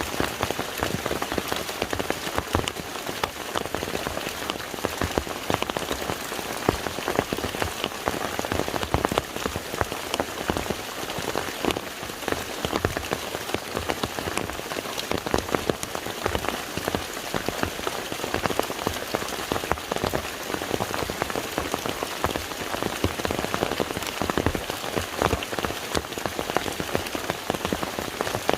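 Steady rain falling on a lake's surface, a dense patter of countless individual drops.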